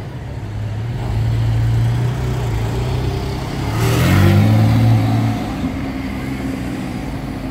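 Sports car engine running, its pitch climbing as it accelerates about halfway through, with a rush of noise at the loudest point, then settling back to a steady drone.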